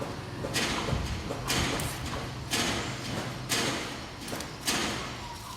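Five rhythmic scraping or brushing strokes across a hard surface, about one a second, over a steady low hum.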